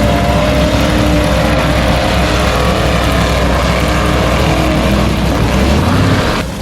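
Electric motor of a radio-controlled monster truck running continuously, its whine wavering slightly in pitch over heavy rumbling noise, easing off near the end.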